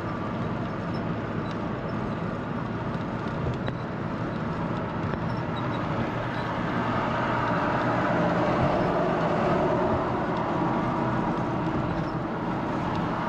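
Steady road and engine noise of a 4x4 ambulance camper driving, growing a little louder past the middle.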